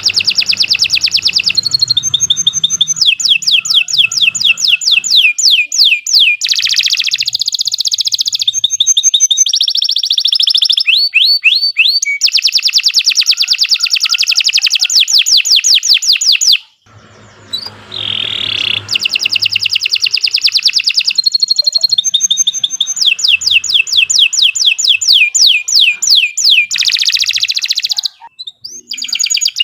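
Domestic canary singing a long, loud song made of fast repeated trills and rolls, high-pitched and changing phrase every second or two, with two short pauses, about halfway through and near the end.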